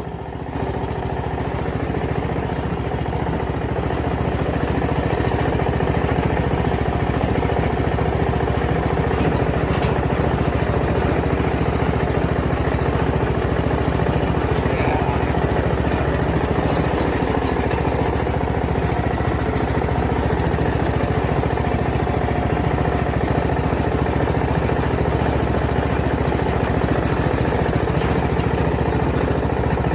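Riding tractor lawnmower's engine running steadily, swelling a little over the first second and then holding an even note.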